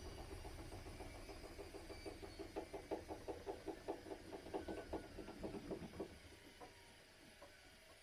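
Zanussi IZ 16 S washing machine running with a low rumble and a regular pulsing of about four to five beats a second from the turning drum, then winding down and stopping about six seconds in, followed by a couple of faint clicks.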